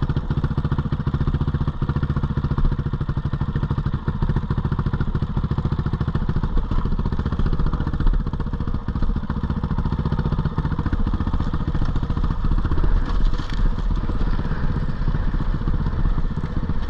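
GPX 450R single-cylinder four-stroke dirt bike engine running steadily on the trail, with small rises and falls in revs.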